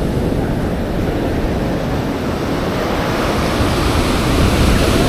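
Ocean surf washing on a sandy beach, with wind rumbling on the microphone; the hiss of the surf grows stronger in the second half.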